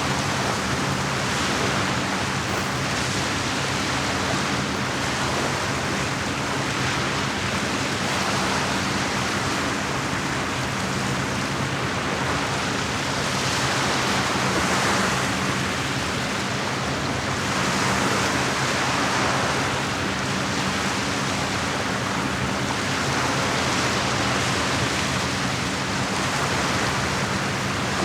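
Small lake waves washing against the shore, a steady rushing noise that swells and eases every few seconds. A steady low hum runs underneath.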